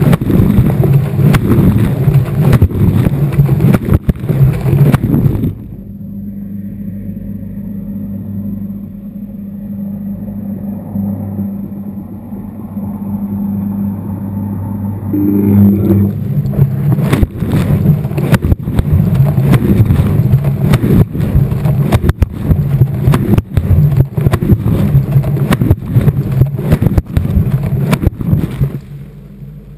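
Washing machine drum turning during the wash, heard from inside the drum: the load and water tumble with loud, irregular knocks over a steady motor hum. The knocking stops for about ten seconds in the middle, leaving only the hum, then starts again.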